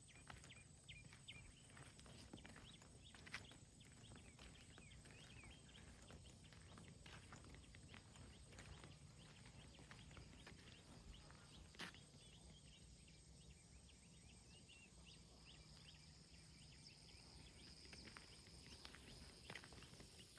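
Near silence: faint outdoor ambience with soft footsteps and scattered small clicks over a low rumble, and a faint steady high-pitched buzz throughout.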